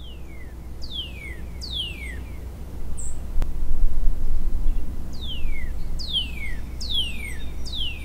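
A songbird singing clear whistled notes that each slide down in pitch: a run of three at the start, then after a pause a run of four near the end. A steady low rumble lies underneath, loudest in the middle.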